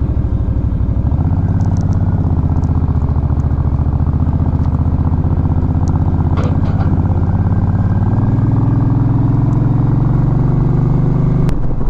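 Suzuki Intruder Volusia 800's V-twin engine running under way. The engine note steps up about a second in, rises again later on, and drops with a click shortly before the end.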